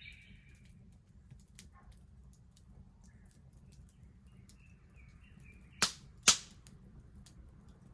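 Garden wood bonfire crackling with scattered small ticks and two loud snaps of burning wood about six seconds in, half a second apart. Birds chirp faintly in the background.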